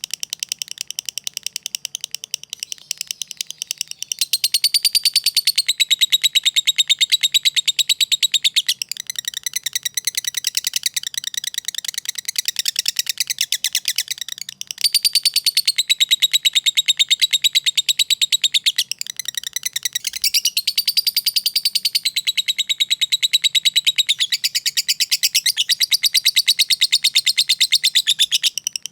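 Lovebird giving a long, very fast ticking chatter ('ngetik') mixed with high chattering song ('ngekek'), in long loud phrases with brief breaks between them.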